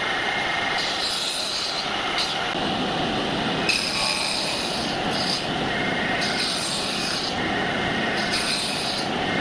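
Wood being sanded: a steady abrasive rubbing with a sharper hiss that swells and drops every second or two as the strokes or passes change.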